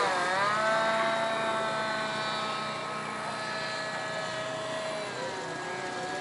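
RC model airplane's motor droning overhead in a steady pitched hum. The pitch drops right at the start as the plane passes, then the sound fades gradually as it flies off, with a brief change in pitch about five seconds in.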